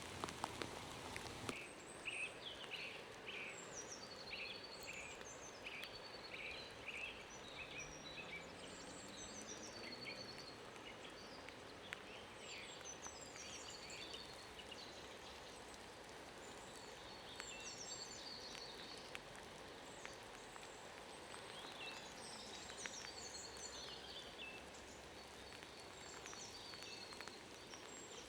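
Faint birdsong in woodland: short high chirps and trills from small birds, repeated throughout over a quiet background hiss.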